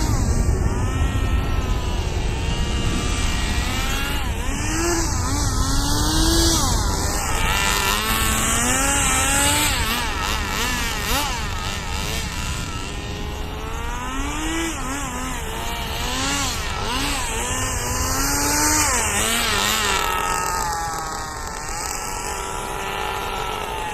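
Small engine of a radio-controlled drift car, revving up and down over and over as the throttle is worked, its pitch rising and falling every second or two.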